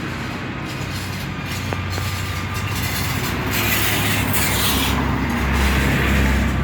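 Fiat 480 diesel tractor engine running steadily, with a rushing hiss that swells a little after halfway and the engine growing louder near the end.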